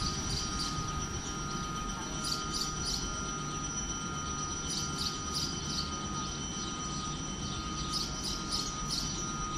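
Small birds chirping in short bursts every second or two, over a steady low rumble and a thin, steady high whine.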